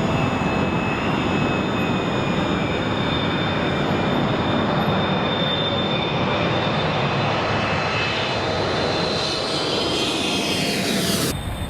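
Jet airliner's engines passing close by: a steady loud rush with whining tones that slowly fall in pitch, growing brighter toward the end before it cuts off suddenly.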